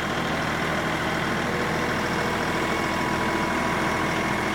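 Compact diesel tractor engine running steadily at a constant speed.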